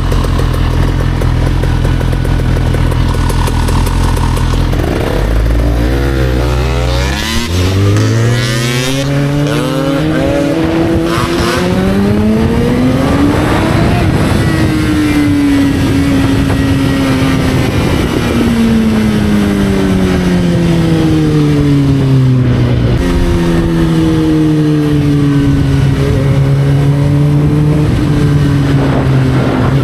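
Motorcycle engine idling, then pulling away about seven seconds in, its pitch climbing steeply as it speeds up, then running on with the pitch sinking slowly and levelling off.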